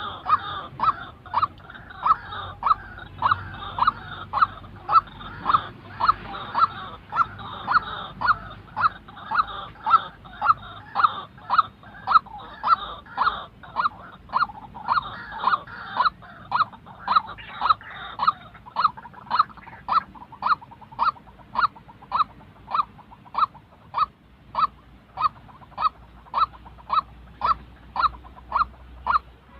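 White-breasted waterhen calling, one short note repeated over and over at about two a second in a steady monotonous series.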